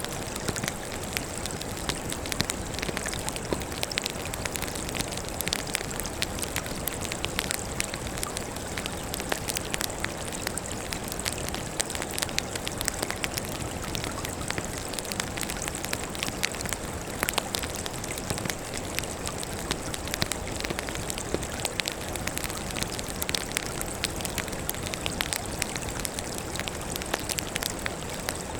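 Firewood burning in an open fire: a steady hiss with many small, irregular crackles and pops throughout.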